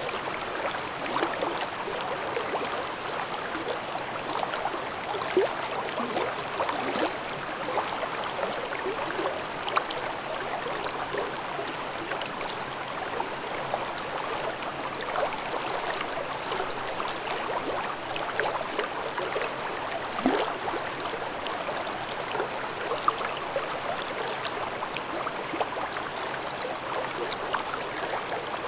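Mountain stream babbling over rocks in a ravine: a steady rush of flowing water with constant gurgling and small splashes.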